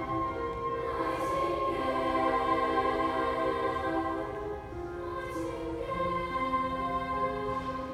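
A choir singing a slow passage in sustained chords, several voice parts holding notes together and moving to new notes every second or two, with a couple of soft sung consonants.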